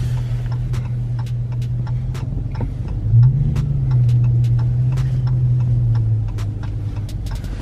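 Car engine running while the car creeps along, with the revs rising briefly about three seconds in and settling back near the end. Hazard flashers tick steadily over it, a few clicks a second.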